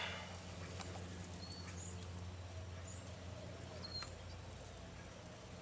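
Quiet outdoor background: a steady low hum, with a few short, high bird chirps and faint small clicks scattered through it.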